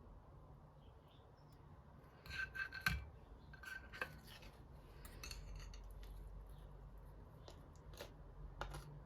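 Small sharp clicks and clinks of household objects being handled, a quick cluster of them about two to three seconds in and a few single ones later, over a steady low hum.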